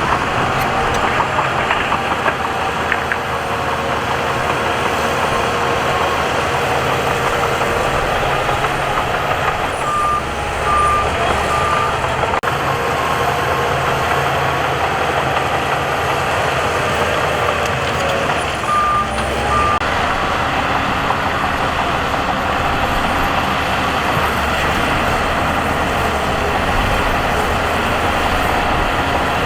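Heavy diesel earthmoving machinery running steadily. A reversing alarm gives three short beeps about a third of the way through and two more about two-thirds through.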